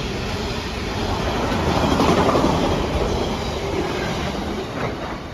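Freight train passing, the rumble of its wheels on the rails swelling to a peak about two seconds in and then fading.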